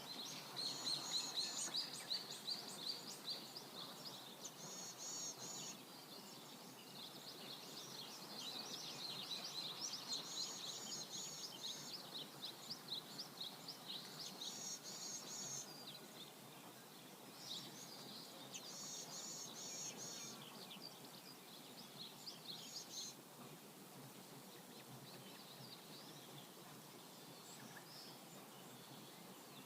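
Songbirds singing in repeated bursts of quick, high, chirping phrases, dying away about twenty-three seconds in, over a faint steady rush of flowing river water.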